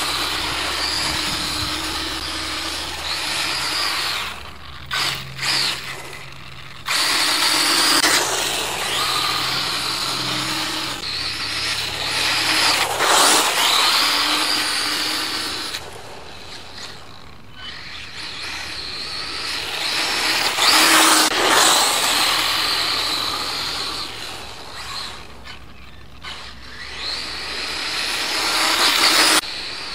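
Radio-controlled Kyosho DRX VE rally car's Castle Creations brushless motor whining up and down in pitch as it accelerates and slows again and again, over a hiss of tyres on loose ground.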